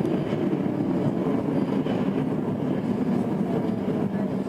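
Interior running noise of a Tokyo Metro 02 series subway car in a tunnel: a steady rumble of wheels on rail and the car body as the train approaches a station.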